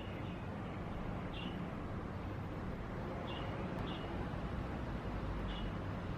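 Steady wash of ocean surf and wind. A few short, high chirps sound over it now and then.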